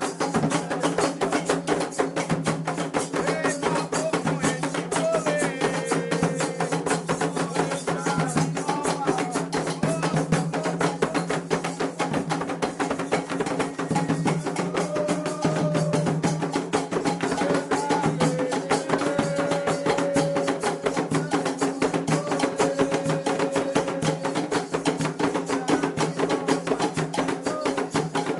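Candomblé ritual music: fast, dense hand drumming on atabaque drums with a struck agogô bell keeping time, under voices singing a chant for Xangô.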